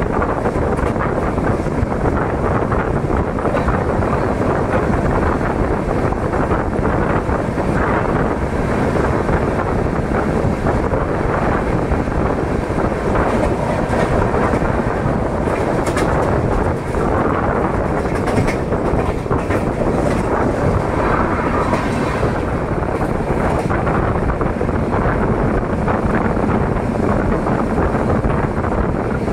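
Gorakhpur Superfast Express running at speed, heard from on board: a steady rumble of wheels on the rails, with wind rushing over the microphone.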